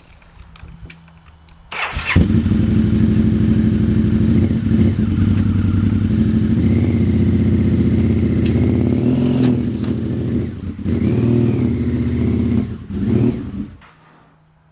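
Motorcycle engine starting and running, with some rises and falls in revs. It is running rough because it is cold, at about freezing. It stops near the end.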